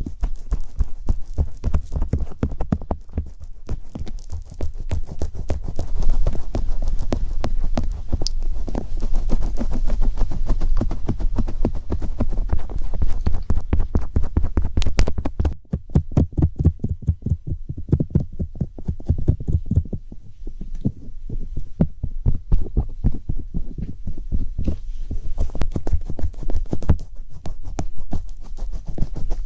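Close-miked ASMR sounds with no voice: rapid, dense tapping and clicking right at the microphone over deep, muffled thumps and a low hum.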